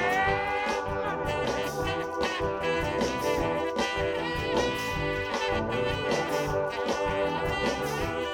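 Soul band playing an instrumental passage with a horn section over a steady drum beat, a note sliding up in pitch right at the start.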